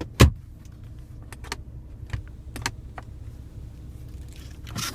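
Car interior trim being handled: one loud sharp knock just after the start, then scattered light clicks and taps, as of a console storage lid and its latch being worked.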